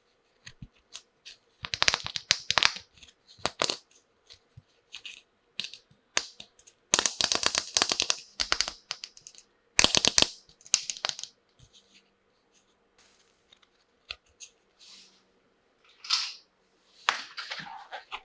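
Plastic packaging crinkling and small plastic toy tea-set pieces clicking as they are unwrapped and handled, in several short bursts with pauses between.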